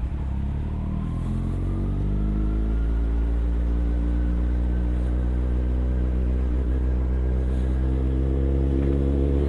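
Motorcycle engine under way, its pitch rising over the first few seconds as it picks up speed, then holding a steady drone over a constant low rumble.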